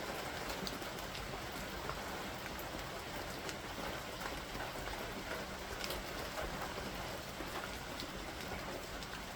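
Steady rain falling during a thunderstorm, with scattered sharp ticks of drops striking nearby surfaces.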